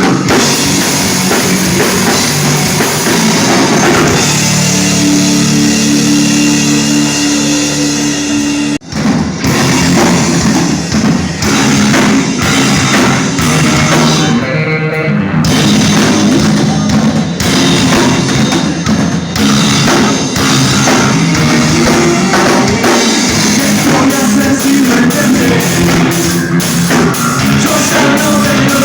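Rock band playing live and loud, with drum kit and guitars. Held chords ring from about four seconds in, cut off suddenly near nine seconds, and the full band comes straight back in with busy drumming.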